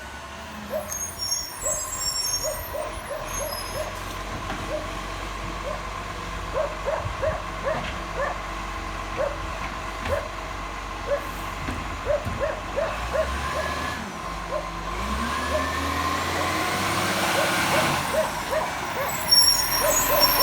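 Garbage truck engine running, revving up with a rising pitch about three-quarters of the way through. Short, repeated chirps sound throughout.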